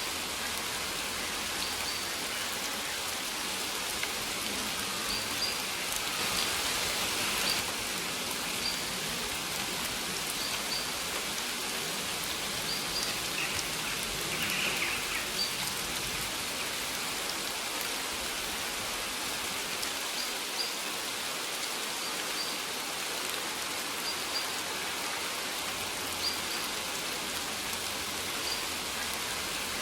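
Steady rain falling, a dense even hiss, with a bird giving short high chirps every second or two.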